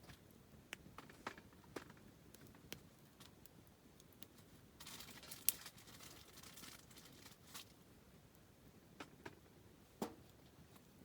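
Wood campfire crackling faintly, with scattered sharp pops and snaps. A short hiss rises about five seconds in, carrying the sharpest snap, and another loud pop comes near the end.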